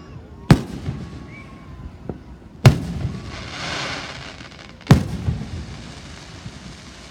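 Fireworks shells bursting: three loud booms about two seconds apart, each with a rumbling tail, a fainter pop between the first two and a brief hiss after the second.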